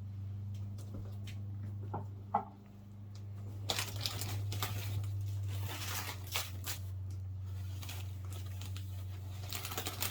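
Packaging being torn and crinkled open by hand, after a couple of light knocks about two seconds in, over a steady low electrical hum.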